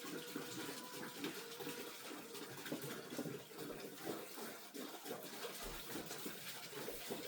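Hot water pouring steadily into a goat water bucket.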